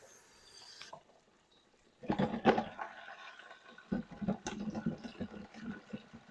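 A brief gush of running water about two seconds in, then a spoon stirring string beans in a pot: a run of quick wet scrapes and knocks.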